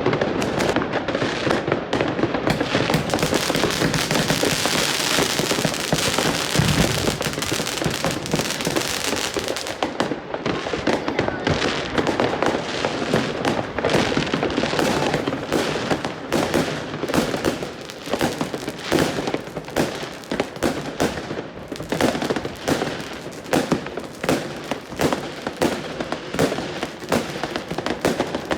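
Many fireworks and firecrackers going off at once, a dense run of crackling bangs. A rushing hiss swells about three seconds in and fades by about nine, after which the bangs come as rapid separate pops.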